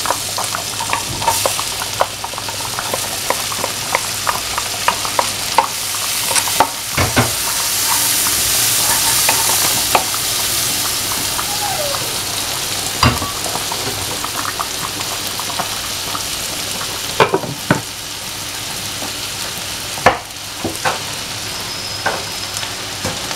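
Butter sizzling in a nonstick wok with diced onion and garlic frying in it, stirred with a spatula that scrapes and taps against the pan. There are a few sharper knocks.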